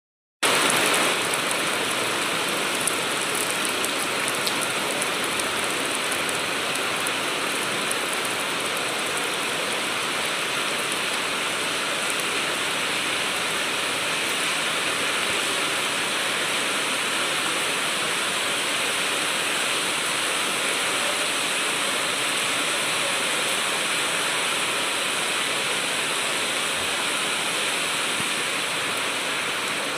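Steady rain falling, an even hiss with a few light drop ticks about the first five seconds.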